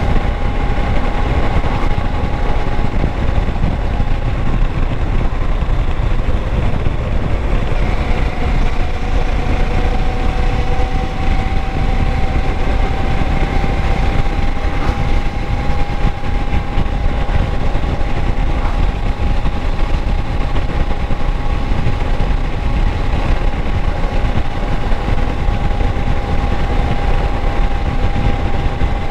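Kawasaki Versys 650 parallel-twin engine running steadily, a dense low rumble with a steady high whine over it that holds one pitch, dipping slightly about eight seconds in.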